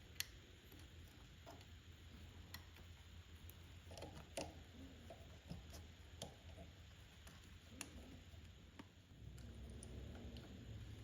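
Faint, scattered clicks and taps of small parts and hand tools being handled during carburetor work, over a low steady hum. The sharpest clicks come near the start and about four seconds in.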